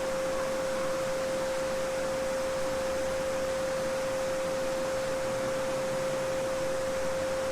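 A steady 528 Hz sine tone (the "Solfeggio frequency") held unbroken over the rushing, babbling sound of a small stream.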